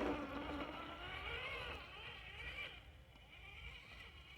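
Electric motor and drivetrain of a Traxxas TRX-4 RC crawler whining as it creeps down a slope at low throttle. The whine rises and falls in pitch with the throttle and fades out about three seconds in.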